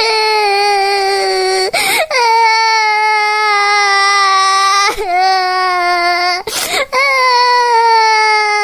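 Infant crying: long, drawn-out wails, each held for a couple of seconds and sliding slowly down in pitch, broken by sharp gasping in-breaths between them.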